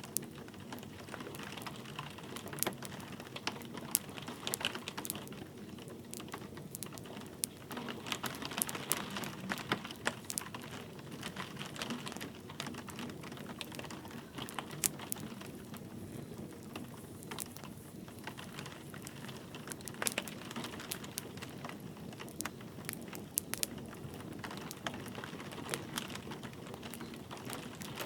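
Wood fire crackling and popping in a fireplace, irregular sharp snaps over a steady soft hiss of light rain.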